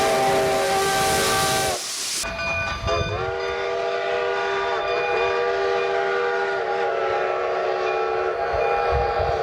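Steam locomotive chime whistle blowing several tones at once over loud steam hiss, its pitch sagging as it shuts off just under two seconds in. About a second later a second chime whistle comes on, sliding up into pitch, and holds a long blast with a few brief wavers.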